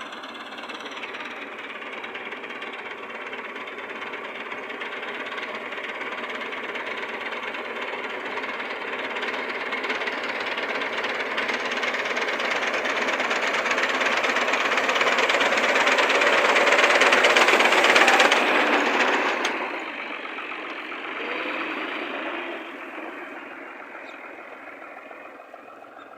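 Diesel tractor engine running hard. It grows steadily louder to a peak about eighteen seconds in, falls off sharply soon after, and fades toward the end, as a tractor passing close by would.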